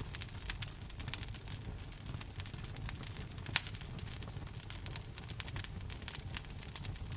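Wood fire burning in a fireplace: steady crackling with frequent small pops over a low rumble, one sharper pop about halfway through.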